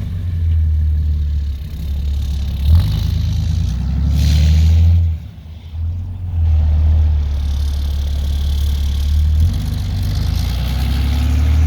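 Diesel dually pickup's engine running with a steady low drone that shifts in level several times, dropping off briefly about five seconds in.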